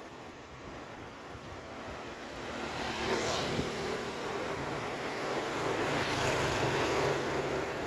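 A motor vehicle approaching close by, its engine and road noise growing louder from about three seconds in and staying loud.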